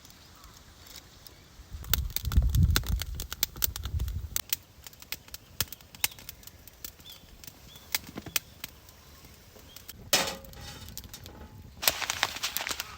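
Irregular sharp clicks and knocks, with a low rumble about two seconds in and louder bursts of noise near ten seconds and again near the end.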